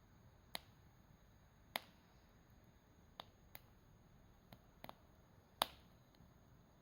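Campfire crackling: burning wood gives sharp, irregular pops, about eight in a few seconds, the loudest a little over five seconds in.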